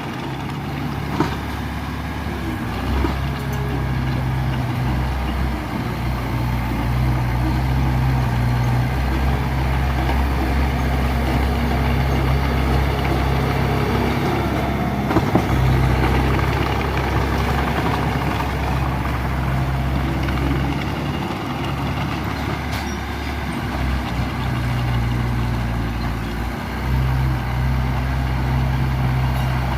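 Heavy diesel engine of an earthmoving machine running steadily, its low hum shifting slightly with load. A few sharp metallic clanks come about a second in and again about halfway through.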